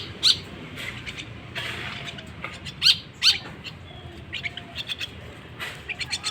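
A young jalak (starling) chick calling: short shrill calls at irregular intervals, the loudest two close together about three seconds in.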